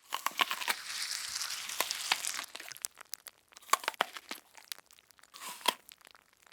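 Bacon frying in a pan: a hiss of sizzling for about a second and a half, then scattered sharp crackles and pops.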